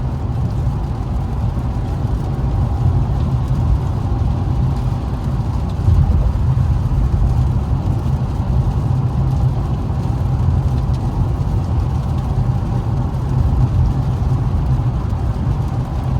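Infiniti Q50S driving on a wet road, heard from inside the cabin: a steady low rumble of engine and tyre noise.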